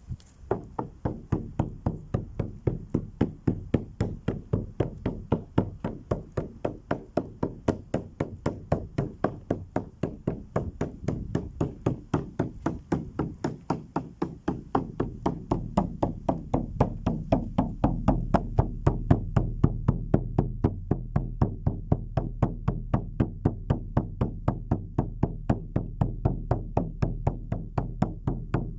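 A drum beaten in a steady, fast, even rhythm, about three strikes a second, growing louder from about the middle onward.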